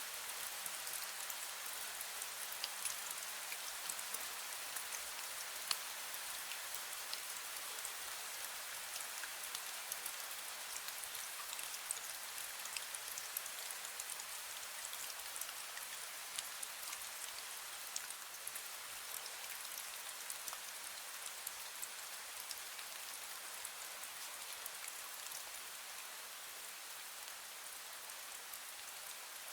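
Steady fine rain falling, with many small drops ticking on surfaces.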